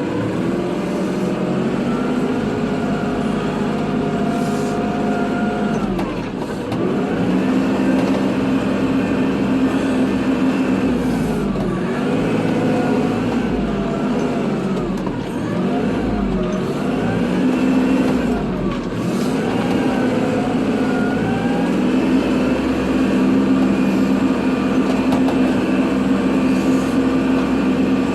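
Kubota tractor's diesel engine running steadily while plowing snow, its pitch sagging and recovering several times through the middle as the load comes and goes.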